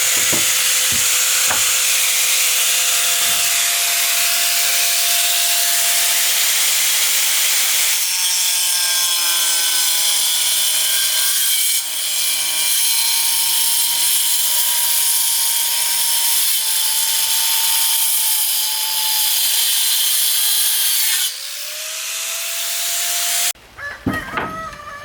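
Power saw cutting through wood, a loud steady whine whose pitch shifts several times as the cut goes on; it stops abruptly near the end, and a rooster crows.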